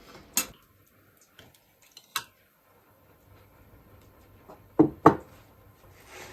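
A few sharp knocks or clacks, the loudest two in quick succession near the end.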